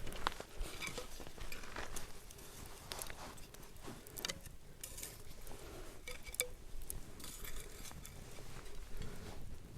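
Scattered light clicks, taps and clinks of small hard objects being handled, with soft rustling between them.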